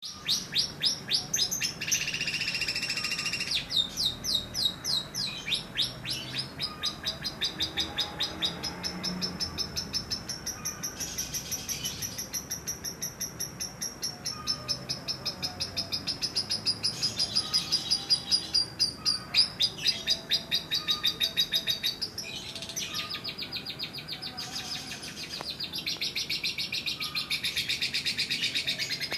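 Lovebird singing a long, fast chattering trill of rapid high chirps, kept up in long runs with only brief breaks.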